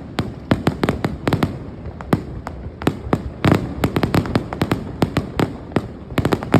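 Fireworks going off in a fast, irregular string of sharp bangs and crackles, several a second.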